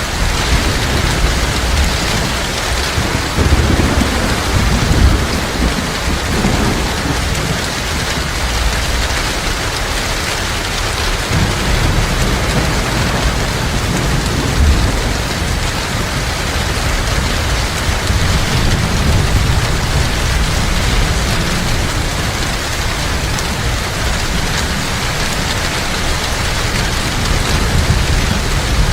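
Heavy rain pouring steadily, with low rolling thunder rumbling underneath, strongest in the first several seconds.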